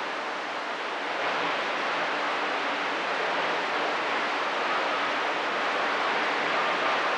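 Radio receiver static: a steady hiss of band noise on an open channel between transmissions, with faint steady whistles from other signals coming in about five seconds in.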